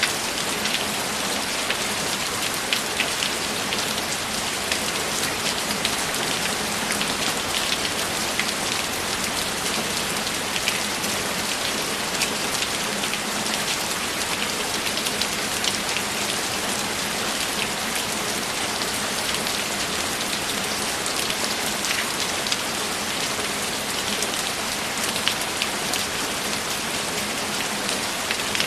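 Steady rain falling, a dense even hiss with many individual drops pattering close by.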